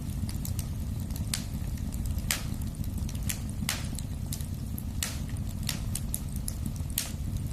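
Wood fire in a fireplace crackling: a steady low rumble with sharp pops about once a second and fainter ticks between them.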